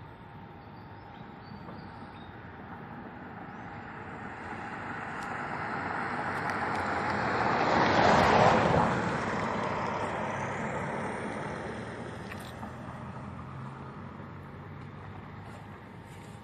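A road vehicle passing by, growing steadily louder to a peak about eight seconds in, then fading away.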